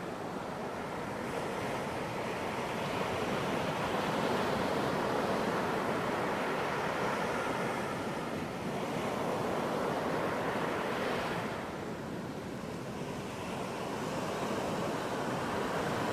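Ocean surf breaking on a beach: a continuous wash of waves that swells and ebbs, easing off a little about three-quarters of the way through and building again near the end.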